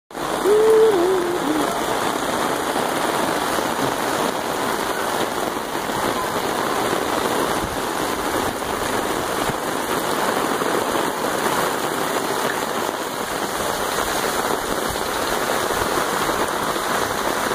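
Heavy rain falling in a steady downpour, an even rushing hiss with no let-up. A short wavering tone is heard about half a second to a second and a half in.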